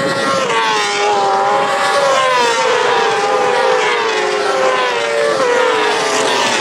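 Several racing motorcycles' engines at high revs passing on track, their notes overlapping and falling and rising in pitch as they go by and change gear.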